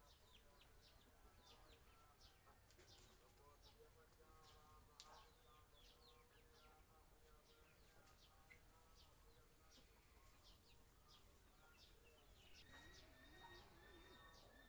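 Faint birdsong: many short, quick chirps from small birds, scattered throughout. Near the end a faint wavering call or voice comes in under them.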